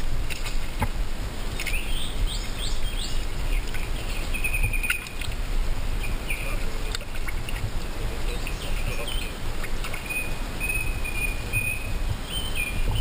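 Birds chirping in short phrases over a steady low rumble, with a few brief faint splashes from a hooked barbel thrashing at the surface.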